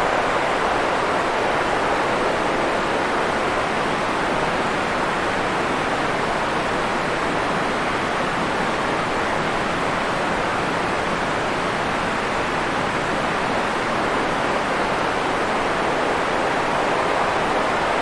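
Steady white noise for sleep: an even, unchanging hiss, fuller in the middle range than at the top.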